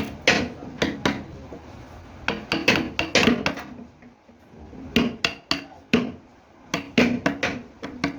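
Sharp knocks and clatters in quick irregular runs of several strokes, with a short lull about halfway; some ring briefly.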